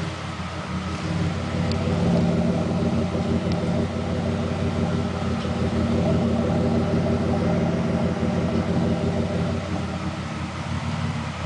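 1999 Pontiac Grand Prix GT's 3.8-litre V6 engine running steadily, rising a little in level about a second in and then holding.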